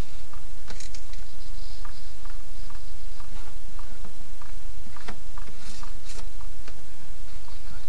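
Scattered light clicks and taps of hands working the plastic sink drain fittings under a bathroom sink, over a steady low hum.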